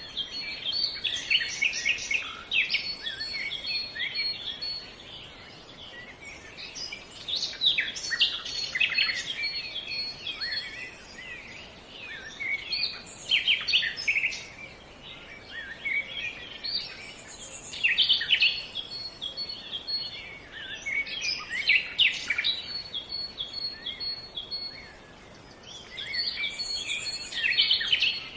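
Small songbirds chirping and singing in bouts of quick, high twittering every few seconds, over a faint steady outdoor hiss.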